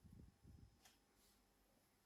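Near silence: room tone with a few faint low bumps and one faint click.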